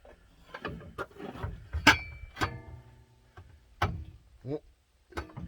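Metal clanks and knocks of an exhaust pipe and tools against the truck's underside while the pipe is worked into place. One loud strike about two seconds in leaves the pipe ringing for about a second.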